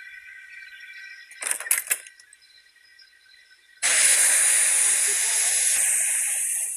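Steady high chirping of crickets, a few sharp knocks about a second and a half in, then a sudden loud hiss of escaping steam from a steam engine that starts about four seconds in and slowly eases off.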